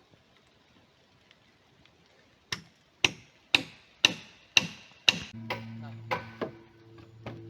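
Six sharp, evenly spaced hammer blows, about two a second, each with a bright metallic ring, as when a nail is driven. Partway through, a steady low hum with several tones begins and carries on under the last blows.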